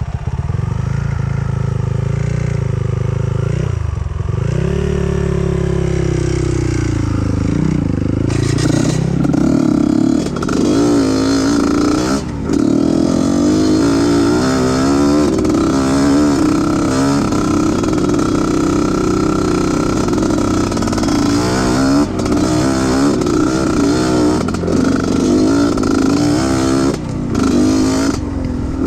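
Off-road trail motorcycle engine running under load, its pitch dipping and rising repeatedly as the throttle is worked.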